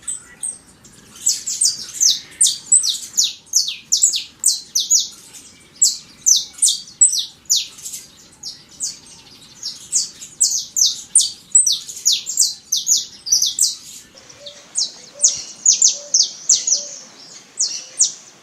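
Saffron finch (Sicalis flaveola) singing: a long series of sharp, high notes in quick succession, about three to four a second, in phrases broken by short pauses.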